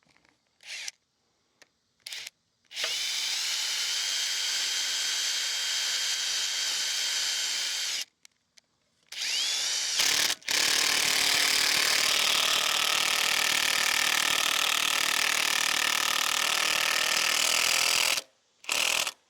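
Cordless drill driving screws through a steel bracket into a post cut from a utility pole. After a few short trigger pulls come two long steady runs, each starting with a rising whine as the motor spins up, and a last short burst near the end.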